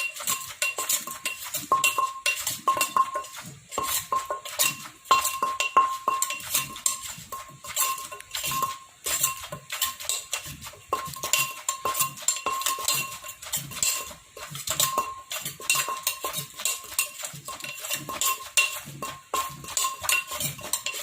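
Pestle pounding in a mortar in a steady run of sharp knocks with a slight ringing, crushing chilies for som tam.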